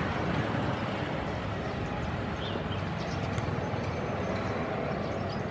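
Diesel-hauled passenger train running out of the station: a steady rumble of wheels on rails with a few light clicks, easing off slightly.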